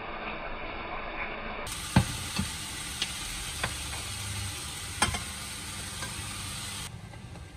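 Onions frying in a pot, sizzling steadily. From about two seconds in come about five sharp clinks of a plate and chopsticks knocking on the cookware, the loudest near two and five seconds in.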